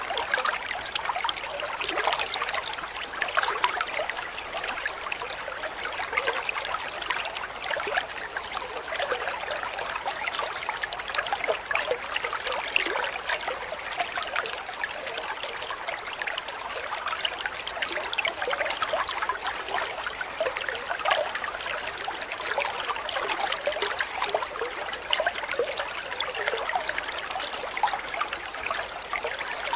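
Steady trickling, babbling water, like a small stream running over stones.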